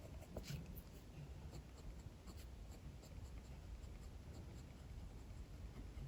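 Pencil sketching on paper: faint, quick scratchy strokes, several a second, over a steady low rumble of strong wind outside.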